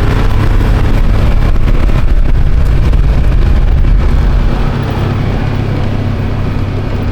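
A Ranger utility vehicle's engine running steadily as it drives along, a loud low drone with wind and road noise mixed in, easing off a little about four and a half seconds in.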